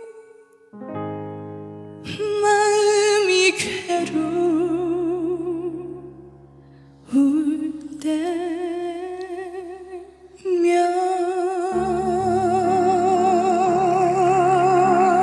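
A woman singing a slow Korean trot ballad, holding long notes with wide vibrato, over piano and keyboard accompaniment.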